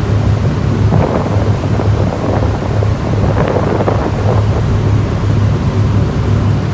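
A ship's engine runs at about 700 RPM with a steady low drone, pushing against a strong current, while wind buffets the microphone. There is a little extra rushing noise about one to four seconds in.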